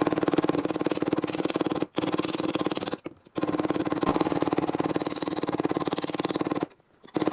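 A power cutting tool chattering through rusted car-body sheet metal in a fast, even rhythm, in runs of a few seconds. It stops briefly about two seconds in, again around three seconds, and near the end.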